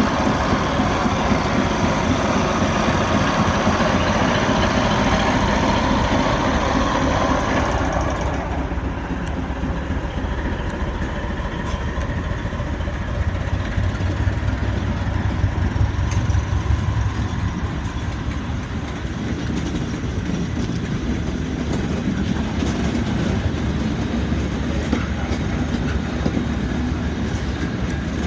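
Diesel-hauled heritage train running along the line: a steady rumble and rail noise. The high hiss drops away sharply about eight seconds in, and the low rumble swells a little later.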